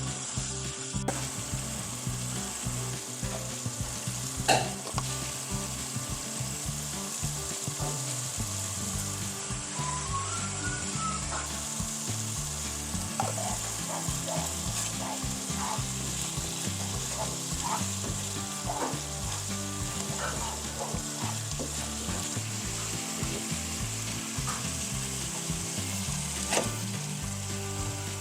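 Food sizzling as it fries in a pan for a curry, stirred now and then with a utensil. There is a sharp knock about four and a half seconds in and another near the end.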